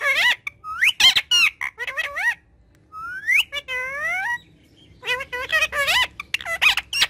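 Green ringneck (rose-ringed) parakeet chattering in quick high-pitched bursts of squawky, gliding calls, its imitation of talking, with two short pauses and a long rising whistle-like call about three seconds in.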